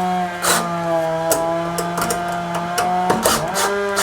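A two-stroke chainsaw held at full throttle, a steady high buzzing drone that holds one pitch throughout. A few short clicks of parts being handled sound over it.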